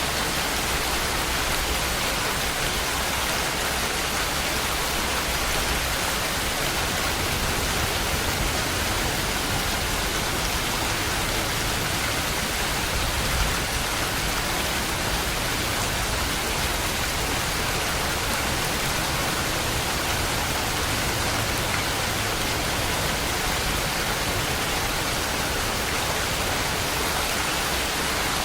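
Steady rain falling, an even hiss with some low rumble underneath and no change in strength.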